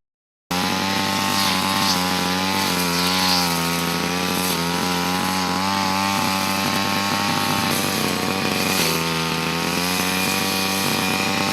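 Motorized pruner's small engine running steadily, its pitch wavering up and down as it works; it cuts in about half a second in.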